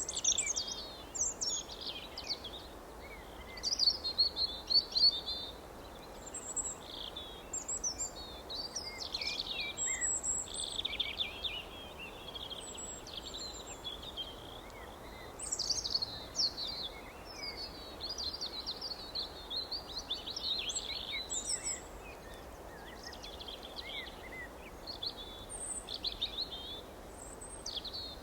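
Several small songbirds chirping and warbling without pause, many quick high phrases overlapping, over a faint steady background hiss.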